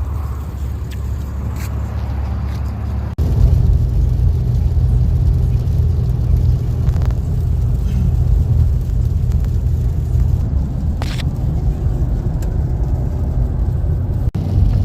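A car driving on the road: a steady low rumble of engine and tyres. It breaks off for an instant about three seconds in and comes back louder, and cuts out briefly again near the end.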